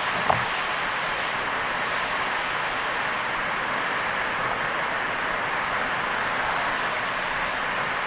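Steady rushing noise of heavy rain and tyres on a wet road, heard from a moving car, with one brief thump just after the start.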